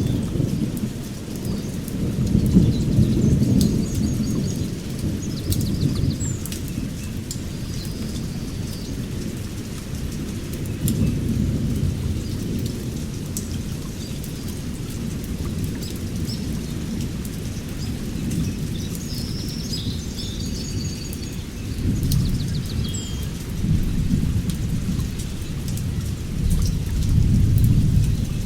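Thunder rumbling over steady rain, swelling and fading several times, with short bird chirps now and then.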